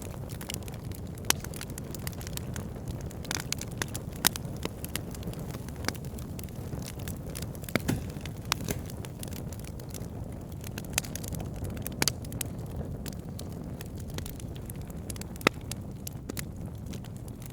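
Wood fire burning: a steady low rumble of flames with irregular crackles and sharp pops from the burning logs, a few pops standing out louder.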